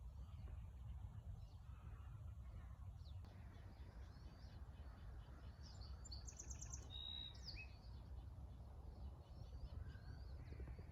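Faint birdsong: small birds chirping on and off, with a quick run of high notes about six seconds in, over a steady low rumble.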